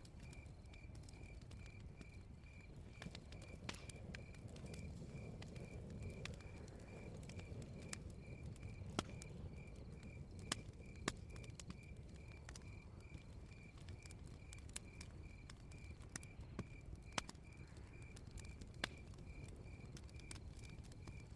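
Campfire crackling, with scattered sharp pops over a low, steady rush, and a cricket chirping evenly about three times a second behind it.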